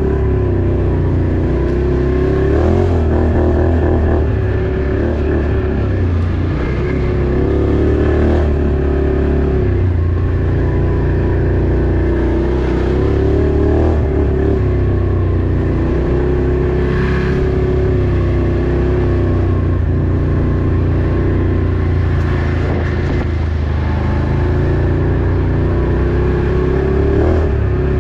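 Off-road vehicle engine heard close up, running continuously, its pitch rising and falling every few seconds as the throttle opens and closes.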